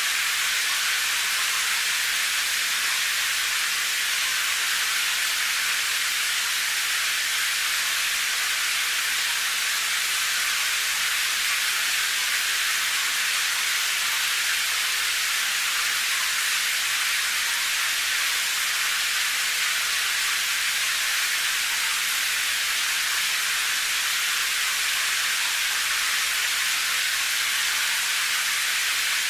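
Steady rain: a dense, even hiss with no single drops, thunder or other sounds standing out.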